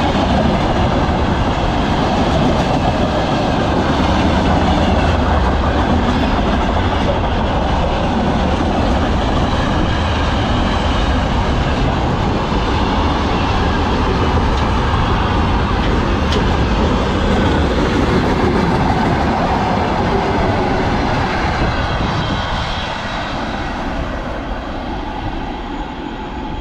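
Freight train rolling past close by, a steady loud rumble of wheels on the rails that starts to fade in the last few seconds as the train moves off.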